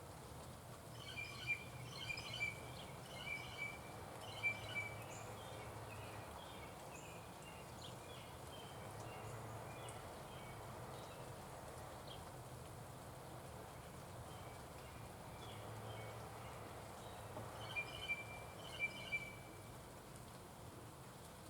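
Birds calling in two short runs of quick, sharp chirps, one in the first few seconds and another near the end, over a steady outdoor background hiss.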